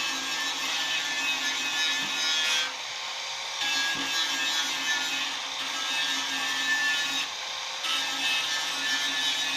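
A power tool runs with a low motor hum under a hissing, scraping sound of work on a surface. It stops briefly about three seconds in and again just past seven seconds, then starts again.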